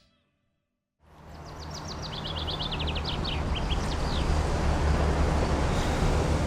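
City outdoor ambience fading in after a second of silence: a steady low traffic rumble and hum. Over it a small songbird sings a quick run of high chirps that drop in pitch, ending about four seconds in.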